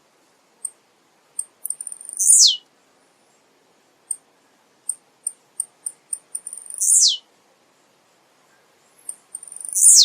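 Male blue-black grassquit (tiziu) singing: a series of short high chips that speed up into its buzzy song phrase, a quick sweep falling steeply in pitch, three times.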